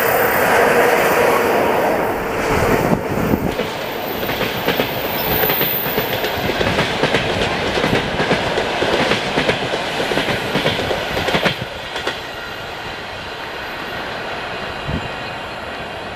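Passenger train hauled by an electric locomotive passing at speed, loudest at first, then the coaches' wheels clacking over the rail joints. About twelve seconds in the clacking stops as the last coaches go by, leaving a fainter rumble.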